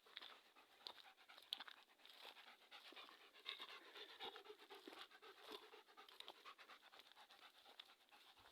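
Dog panting faintly, with scattered light clicks and rustles.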